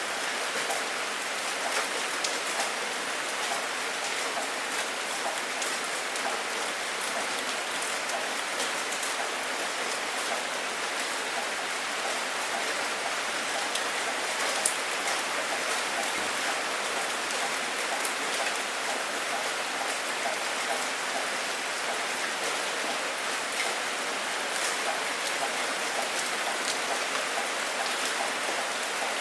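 Steady rain falling on a surface, an even hiss with individual drops ticking sharply through it. One louder drop lands about halfway through. No thunder.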